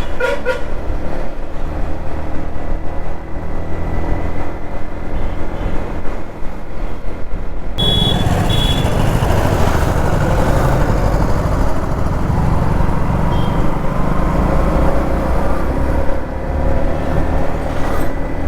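Modified Yamaha MT-15's 155 cc single-cylinder engine running steadily while riding on a highway. The rush of wind and road noise grows much louder about eight seconds in.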